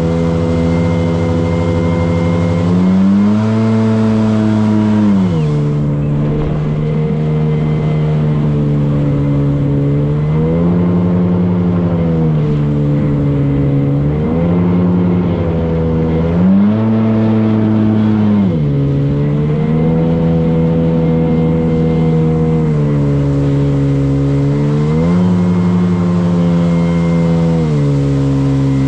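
Motorboat engine running steadily, its pitch rising and falling several times as the revs go up and back down every few seconds.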